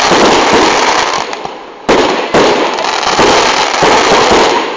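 Fireworks display: dense, loud crackling and popping from bursting shells, with fresh bursts coming in about two seconds in.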